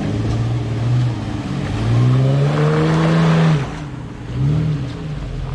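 Jeep engine revving in surges on a muddy off-road trail: a short rise early, a longer climb in pitch that cuts off sharply past the middle, then a brief blip of throttle near the end.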